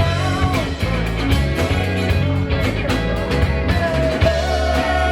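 Live rock band playing a song, with a steady drum beat under guitar and other instruments.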